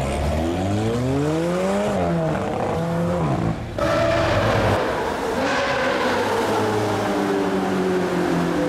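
Supercar engine revving, its pitch climbing and dropping several times. About halfway through the sound cuts to a steadier engine note that slowly falls in pitch.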